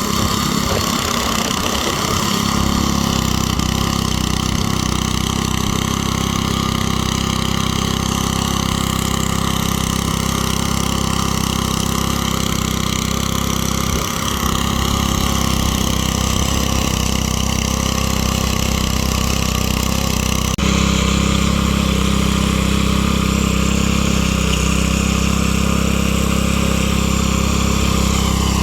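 Small gasoline engine of a garden tiller running steadily, working the soil. It turns abruptly louder about two-thirds of the way through.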